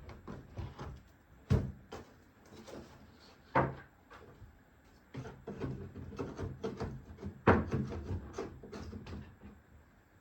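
Irregular knocks, taps and rustling of RC airplane parts being handled and set down on a workbench, with three louder knocks about one and a half, three and a half and seven and a half seconds in.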